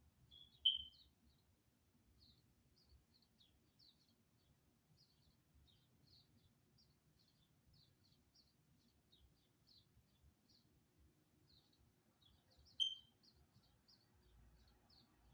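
Small birds chirping faintly and steadily, many short high chirps. Two louder single chirps stand out, about a second in and near the end.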